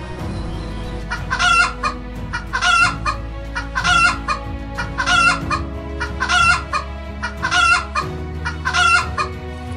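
Chicken calls, seven short ones of the same shape, evenly spaced about a second and a quarter apart, over steady background music.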